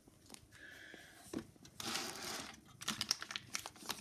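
A plastic Felix Soup cat-food sachet being crinkled and torn open: a stretch of rustling about halfway through, then a quick run of sharp crackles.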